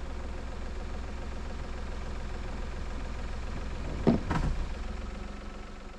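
Car engine running steadily, heard from inside the vehicle, with a short sharp clunk about four seconds in; after it the sound slowly fades.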